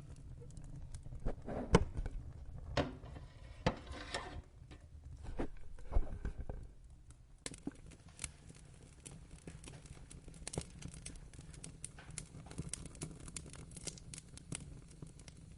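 Wood fire in a fireplace crackling and popping over a low steady rumble of flames. A burst of louder pops and a brief hiss comes in the first few seconds, then lighter, scattered crackles.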